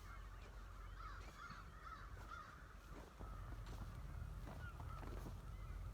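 Crows cawing in the distance, many faint calls overlapping, over a low steady rumble.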